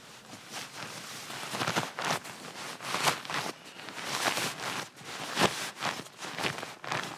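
Irregular rustling and swishing of camping gear being handled, with a sharper knock about five and a half seconds in.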